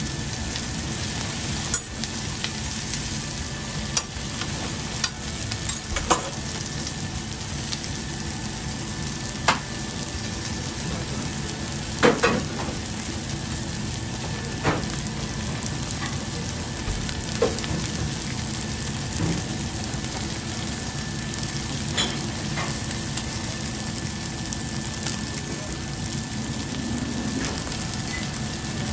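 Chicken pieces and sliced onions, leeks and carrots sizzling on a flat-top griddle: a steady frying hiss with scattered sharp clicks, the loudest a quick double click about twelve seconds in.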